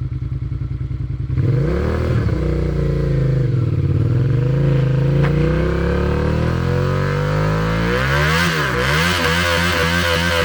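Suzuki SV650's 645 cc V-twin with an Arrow exhaust idling with an even pulse, then revved up about a second and a half in, rising and falling in several swells before being held at high revs near the end.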